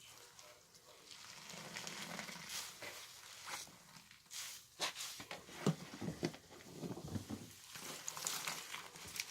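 A sponge soaked with laundry soap being squeezed by hand, giving irregular wet squishes and crackles that come thicker in the second half.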